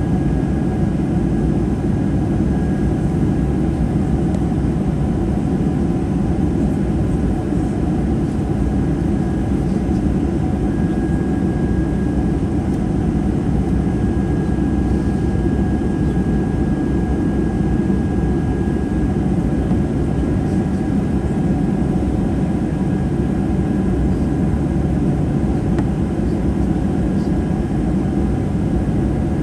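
Boeing 737-800 cabin noise in flight, heard from inside the cabin: a steady, even low rumble of airflow and the CFM56 jet engines, with a faint high whine over it.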